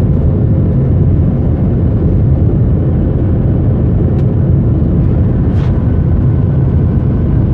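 Jet engines of a Southwest Boeing 737-700 airliner, a steady loud roar heard from inside the cabin during takeoff, with a faint steady hum of tones over it.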